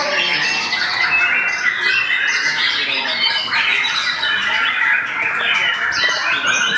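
White-rumped shamas (murai batu) singing in a dense, unbroken stream of rapid-fire chirps, trills and harsh calls, several birds overlapping at once.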